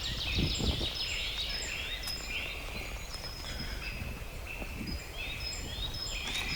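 Outdoor ambience: small birds calling, short high notes repeated about twice a second, over a low wind rumble.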